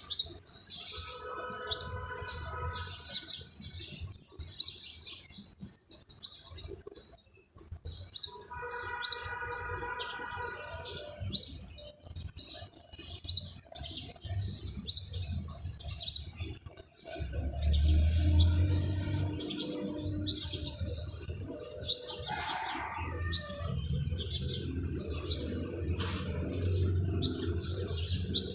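Many small birds chirping in quick, dense short calls. Twice a held pitched tone lasts about two seconds, and a low rumble joins in the second half.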